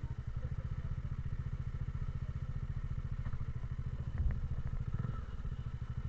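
Motorcycle engine running steadily with a rapid, even putter, and one thump about four seconds in.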